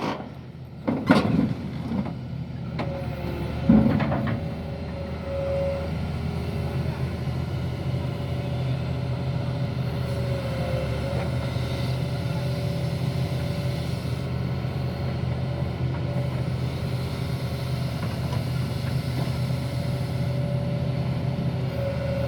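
Doosan excavator's diesel engine running steadily under load with a constant hydraulic whine, and a couple of knocks about a second and four seconds in. One track is dead from a failed final drive, so the machine is moving itself with its bucket and boom.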